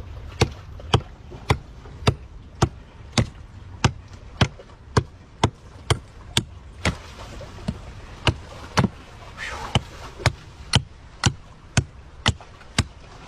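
A hand chopping tool striking a tree root again and again, about two sharp strokes a second.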